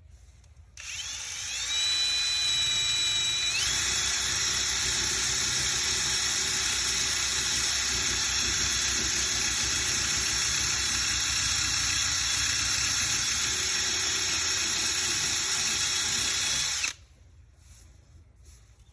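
Power drill with a sanding pad, sanding old paint off a car hood. It starts about a second in with a rising whine as it spins up, runs steadily with the pad rasping on the paint, and stops suddenly near the end.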